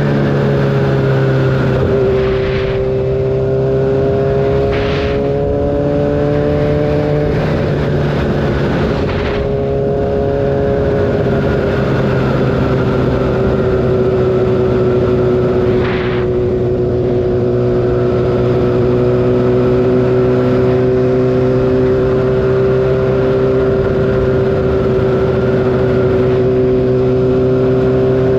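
Kawasaki ZX-6R inline-four engine running at a steady highway cruise, its pitch shifting slightly a couple of times in the first ten seconds and then holding level. A few brief sharp noises cut across it.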